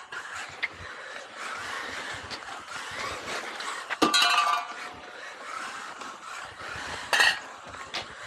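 Tamiya XV-01 electric 4WD RC rally car running on pavement with a steady hiss of motor and tyres, broken by two short, sharp clinking bursts about four and seven seconds in.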